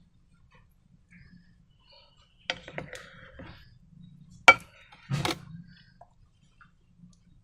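Handling sounds from slime making: a few sharp clicks and knocks, a cluster about two and a half seconds in, the sharpest single click about four and a half seconds in, then a brief rustling knock just after five seconds.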